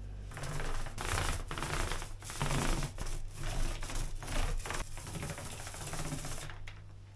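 Paintbrush strokes rubbing back and forth across a wooden cupboard panel while a top coat of paint is applied, a scratchy brushing noise in uneven strokes that stops about half a second before the end.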